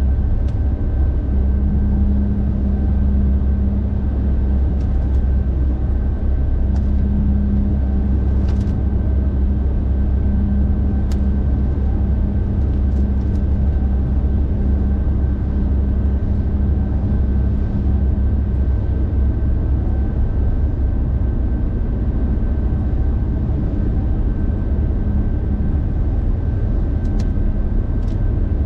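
A car driving along, with a steady low rumble of road and engine noise and a constant high whine throughout. Now and then there are faint ticks.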